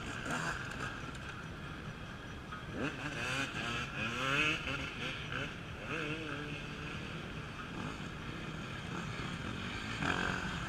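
Off-road racing motorcycle engines revving up and down, loudest between about three and seven seconds in, over a steady drone of more bikes further off.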